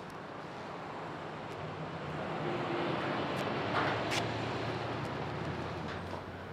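A vehicle passing by, its noise swelling to a peak about four seconds in and then fading.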